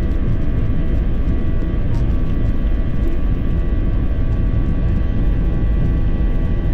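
Jet airliner engines heard from inside the passenger cabin: a loud, steady rumble with several steady whining tones above it.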